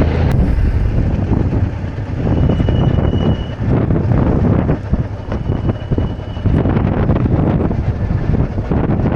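Wind rushing and buffeting over the microphone on a moving Honda Deauville 650 motorcycle, with the bike's engine running underneath. The level surges and dips with the gusts.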